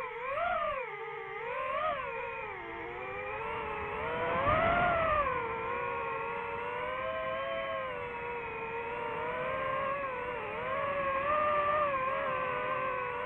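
DJI FPV quadcopter's motors whining in flight, the pitch rising and falling with the throttle, with a louder surge about four to five seconds in.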